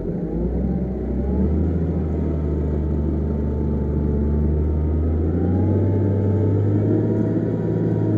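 Heavy diesel engine of earthmoving machinery running steadily; its pitch steps up about five seconds in.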